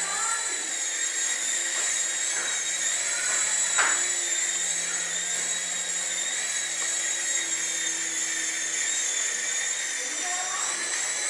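Small electric motors of a toy 4-channel RC helicopter running with a steady high whine that wavers slightly in pitch, with a short bump about four seconds in.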